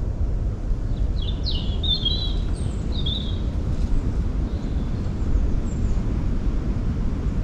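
A small songbird singing one short phrase of quick, high, falling notes, about a second in. Underneath is a steady low rumble of wind on the microphone or distant traffic.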